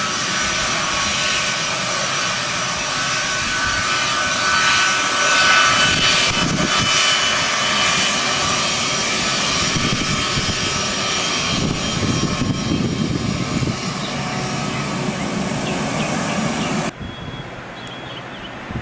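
Airliner engines running loud, a roar with several steady high whining tones on top. The roar swells a little partway through and cuts off abruptly near the end to a quieter background hum.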